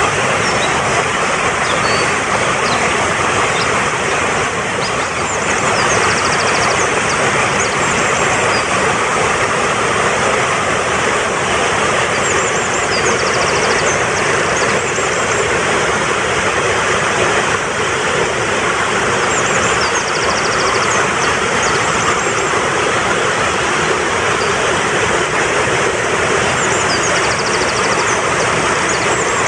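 Mountain stream rushing fast and steady, with small birds chirping and giving short high trills over it several times.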